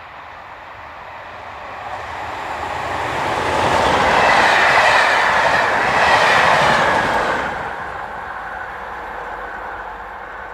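Pair of English Electric Class 37 diesel locomotives passing, engine and wheel noise building up, loudest for about three seconds in the middle, then fading away.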